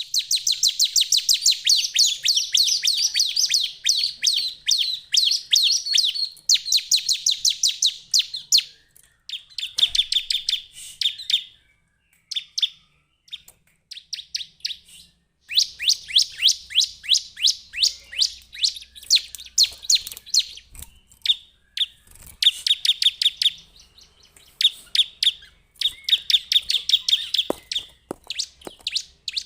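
Bar-winged prinia calling: long, rapid trains of sharp, high chipping notes repeated many times a second, in bursts of several seconds with brief pauses and a sparser patch about halfway through.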